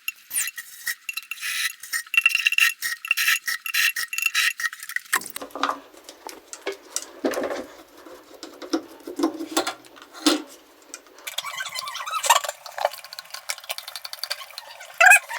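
Small hard objects clinking and rattling as they are handled: a busy run of short clicks and clinks, with the character of the sound changing abruptly about five and eleven seconds in.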